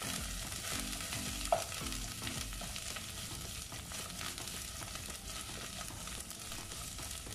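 Sliced onions frying in oil in a pot, sizzling steadily while a wooden spoon stirs them, with one brief louder knock about a second and a half in.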